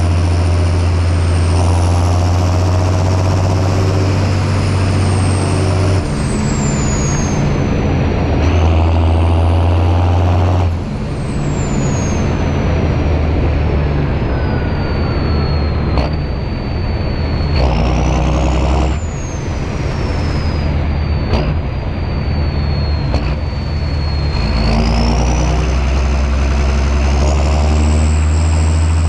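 John Deere 6630 Premium tractor's diesel engine running under load while plowing, with a high whine that rises and falls with the revs. The engine note changes several times, about six, eleven, eighteen and twenty-four seconds in.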